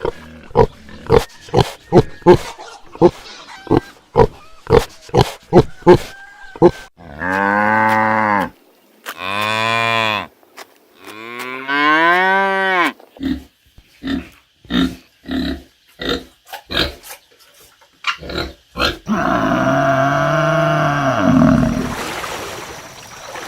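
Cattle mooing: several long moos that rise and fall in pitch, in the middle and again near the end. Between them come runs of short, sharp sounds repeated about twice a second.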